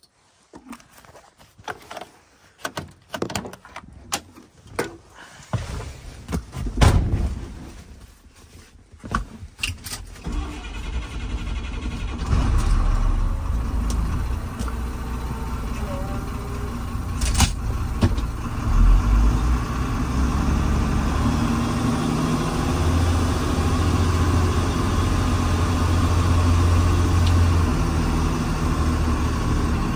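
Scattered clicks and knocks for about ten seconds, then the diesel engine of a piece of earthmoving equipment comes up and runs steadily with a heavy low note.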